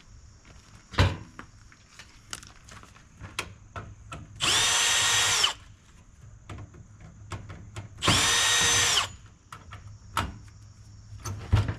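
Power drill spinning up and down in two runs of about a second each, backing out screws to take a dryer motor assembly apart. Scattered knocks and clicks of metal parts being handled come between the runs.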